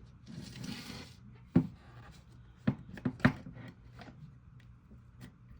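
Handling noises on a desk: a short rustle, then a few light knocks, one about a second and a half in and three more close together around three seconds in.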